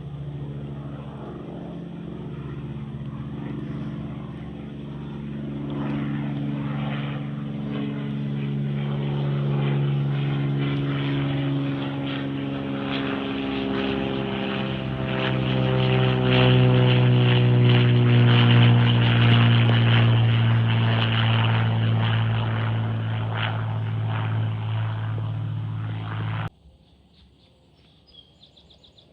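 Propeller airplane flying past, a steady engine and propeller drone that grows louder to a peak and then cuts off suddenly near the end.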